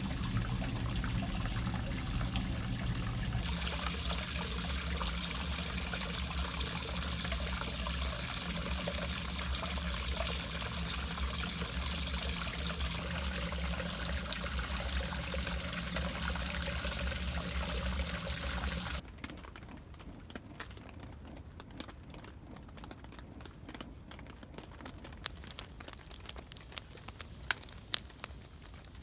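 Water running steadily from a tap, with a low hum underneath, shut off abruptly about two-thirds of the way through. After that, a few faint scattered clicks.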